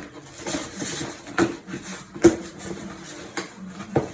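Work handling noises: about four sharp clicks and knocks, the loudest a little past halfway, with rustling and light scraping between them.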